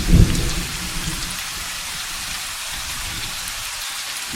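Steady rain with a short low thunder rumble right at the start that fades within about half a second.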